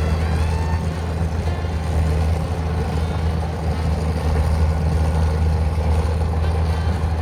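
Tractor's diesel engine running steadily under load while ploughing a rice paddy, a constant low hum.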